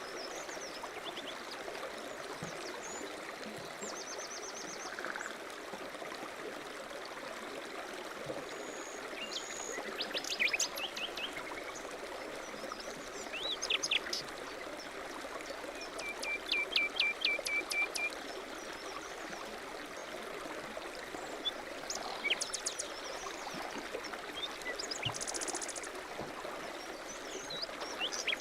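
A stream running steadily, with songbirds chirping over it several times. Some calls are quick runs of repeated notes, the longest a few seconds past the middle.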